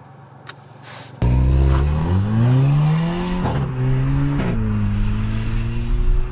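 Audi A3 8V's 1.4 TFSI turbocharged four-cylinder, fitted with an aftermarket exhaust valve, pulling hard about a second in with its pitch rising, dropping twice in quick gear changes, then running steadily.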